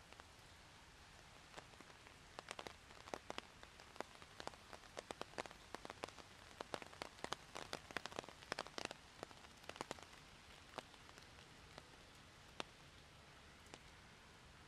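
Rain: many sharp, irregular drip ticks of large raindrops striking a surface close by, dense from about two seconds in until about ten seconds, then only a few, over a faint steady hiss of rain.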